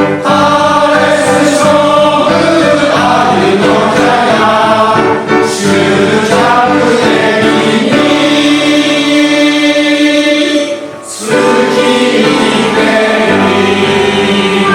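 Male-voice choir singing in harmony, with a brief break about eleven seconds in before the voices come back in.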